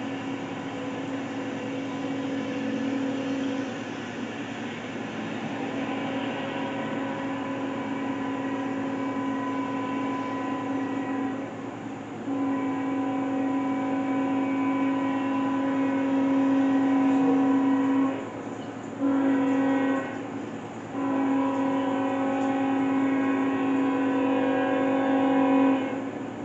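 Locomotive air horn sounding in long blasts, then a short one and a final long one: the long-long-short-long signal for a grade crossing, over the rumble of the passing train.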